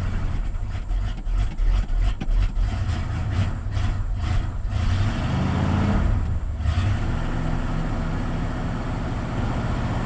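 1980 Ford F-100's 302 V8 running rough and uneven just after a cold start, flooded with fuel. About five to six seconds in it revs up briefly, then settles into a steadier idle.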